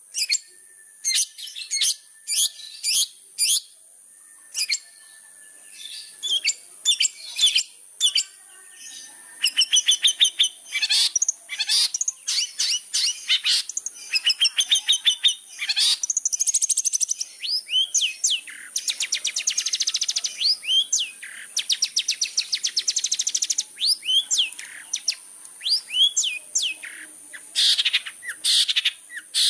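Long-tailed shrike (cendet) in full song: a fast, varied stream of sharp chips and squeaky notes, broken by quick rattling trills. A steady high tone runs underneath.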